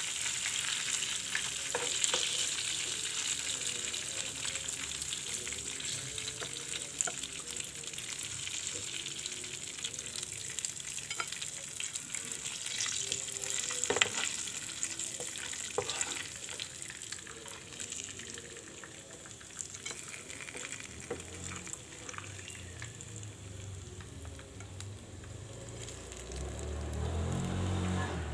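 Flour-battered chicken pieces frying in hot oil in a pan, with a steady sizzle and scattered sharp pops and clicks. The sizzle slowly quietens, and a low rumble comes in near the end.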